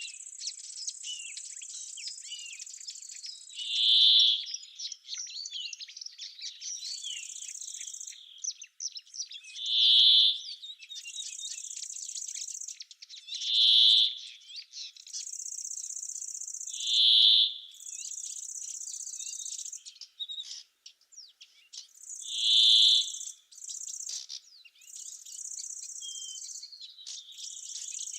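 Birds chirping and singing over high, buzzing insect stridulation that comes and goes in phrases of a second or two. A loud, roughly one-second call rings out five times, every four to six seconds.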